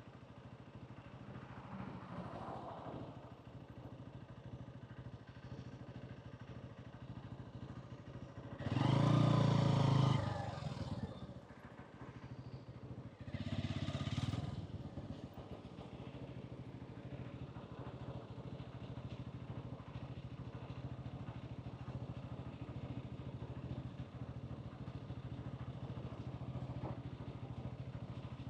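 Hansom Bike Benet 125cc motorcycle running on the road, a steady engine note under traffic noise. There are two louder swells of rising engine pitch, about nine and fourteen seconds in.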